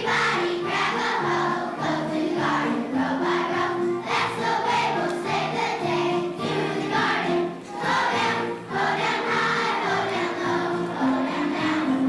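A children's choir singing with piano accompaniment: a song from a school musical, the sung notes held over steady accompaniment.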